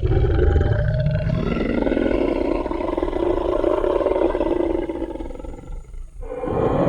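Tyrannosaurus rex roar sound effect: one long, deep growling roar that fades away about six seconds in, then a second roar starts near the end.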